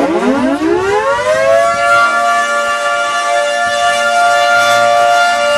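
Outdoor civil defense tornado warning siren winding up: its pitch rises for about the first two seconds, then holds a steady, loud wail. It is being sounded for a tornado warning.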